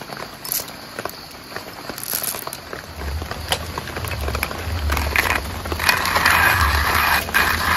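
Rain on a tent flysheet: scattered drops ticking at first, then a low rumble joins about three seconds in, and about six seconds in the rain grows into a louder steady hiss.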